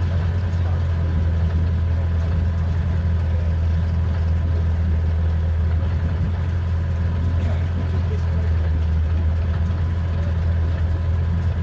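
A small boat's petrol engine running steadily at low revs, a constant low hum with no change in pitch.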